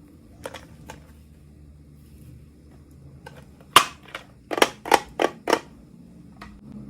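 Sharp plastic clicks and snaps from small miniature toys being handled: a few faint clicks, then one loud snap about four seconds in, followed quickly by four or five more.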